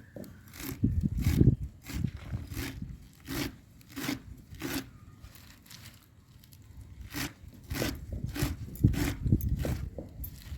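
Repeated crunchy cutting or scraping strokes, roughly one or two a second, with heavier thumping strokes about a second in and again near the end and a short pause in the middle.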